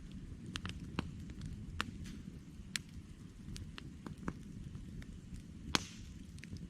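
Wood campfire crackling: irregular sharp pops and snaps over a low steady rumble, with one louder pop near the end.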